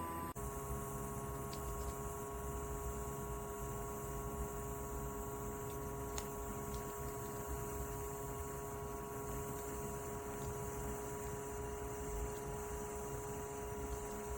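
Steady electrical hum with several steady tones over a low rumble, with a brief drop about a third of a second in.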